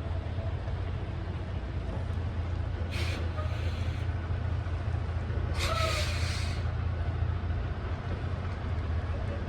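Semi-truck's diesel engine running with a steady low drone, with two short hisses, each carrying a faint squeak, about three and about six seconds in.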